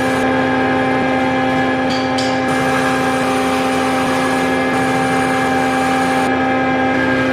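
Electric woodworking power tool running steadily, a loud motor hum and whine that holds one pitch.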